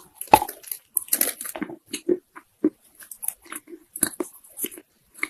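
Soft Chinese loess clay crunching in a quick, irregular series of short crunches, with the loudest about a third of a second in.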